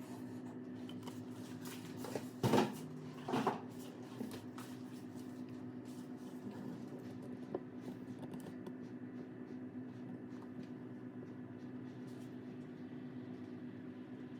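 A steady low hum, with two brief clattering handling noises about two and a half and three and a half seconds in.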